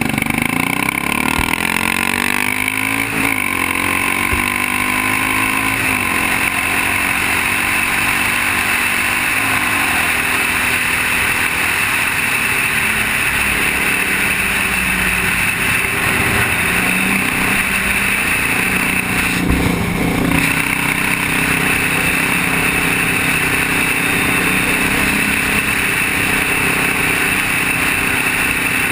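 Motorcycle engine running under way, its pitch rising and falling several times, over a steady rushing noise.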